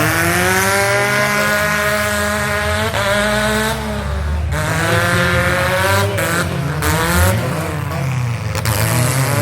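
Several demolition derby car engines revving hard at once, their pitches rising and falling.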